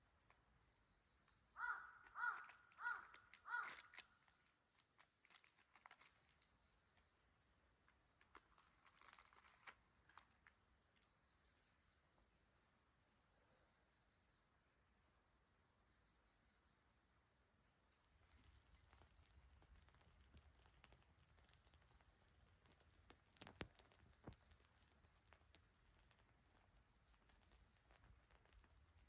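Insects chirping steadily in a fast, pulsing high-pitched trill, with a crow cawing four times about two seconds in. A few faint clicks come near the end.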